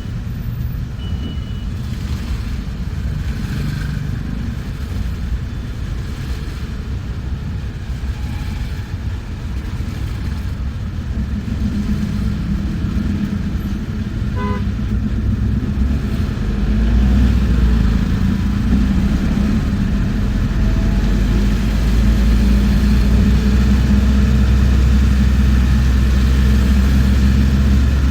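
Bus engine and road rumble heard from inside the moving bus, a continuous low drone that grows louder and deeper from about halfway through. There is a brief short beep a little before that.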